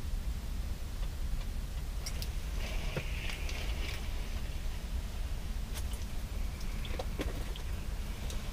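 A few scattered light clicks and a brief rustle over a steady low rumble.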